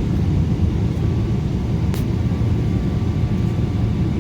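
Steady low rumble of a Boeing 777's GE90 engines at low thrust, heard from inside the cabin while the plane is on the ground. A faint steady whine runs under it, and a single brief click comes about two seconds in.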